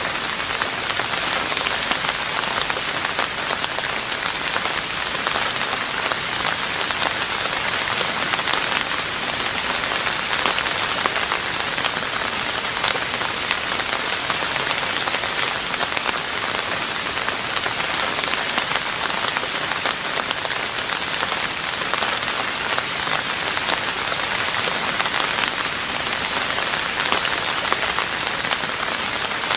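Rain falling steadily on a roof: a dense, even patter of many drops.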